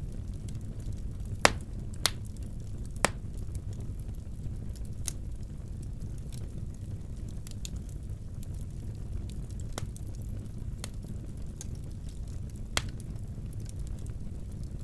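Wood fire burning in a fireplace: a steady low rumble with scattered sharp crackles and pops, the loudest three in the first three seconds and another near the end.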